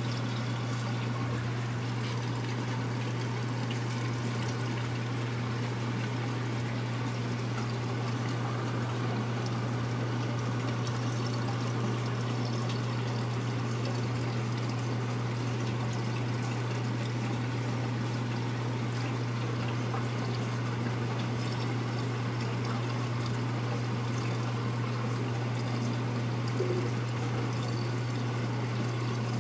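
Steady low hum under a constant even hiss, unchanging throughout, with no distinct clicks or feeding sounds standing out.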